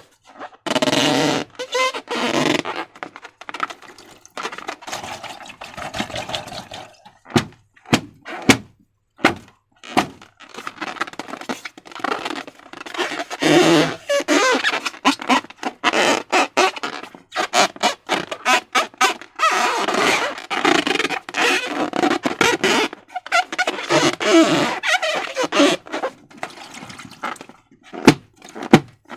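Slime and rubber balloons being handled up close: stretches of wet squishing and rubbing, broken by many sharp taps and clicks, two strong ones near the end.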